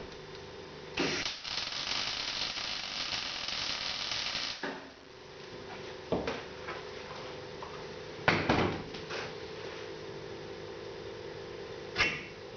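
A machine motor hums steadily, with a hissing noise for a few seconds about a second in and several sharp metal knocks scattered through.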